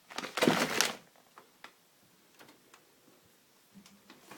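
Plastic clatter from a fridge freezer's tilting door baskets being handled, lasting about a second, followed by a few faint clicks.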